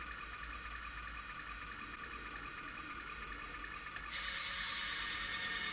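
Mini radio-control toy battle tank running under test: a steady buzzing whir that grows louder about four seconds in.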